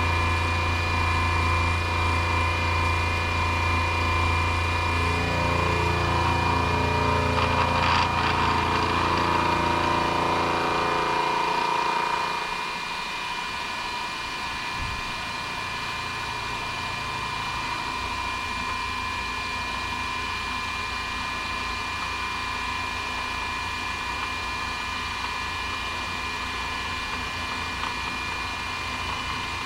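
Electric motor of a manual milling machine running with a steady hum, its tone shifting, then switched off about twelve seconds in. A quieter steady hum carries on after it.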